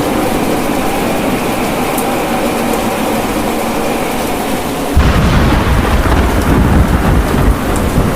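Steady rain, with a loud low rumble of thunder that starts suddenly about five seconds in and rolls on for about three seconds.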